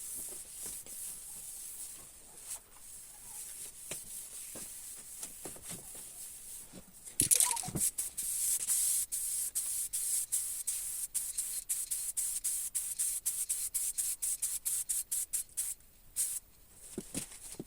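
Paint spraying: a high hiss that starts suddenly about seven seconds in and then runs on, broken by many short gaps and one brief pause near the end. Before it there are only faint scattered clicks and rubbing.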